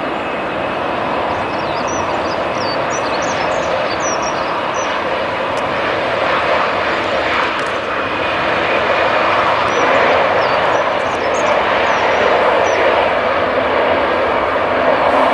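Jet engines of an Airbus A319 at takeoff power on departure: a steady rushing noise that grows slowly louder.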